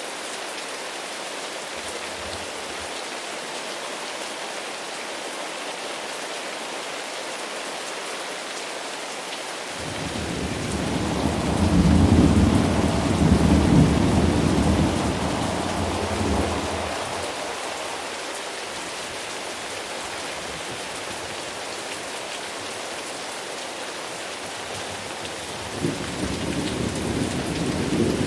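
Steady rain falling, with a roll of thunder that swells about a third of the way in, rumbles for several seconds and fades away; another rumble of thunder begins near the end.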